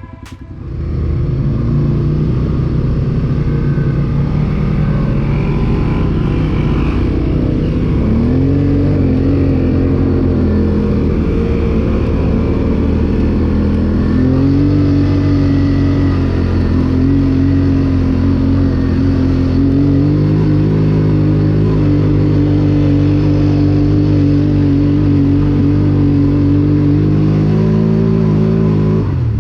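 Four-wheeler (ATV) engine running while riding, coming up loud within the first second. Its pitch climbs about eight seconds in and again around fourteen seconds as it speeds up, then holds fairly steady.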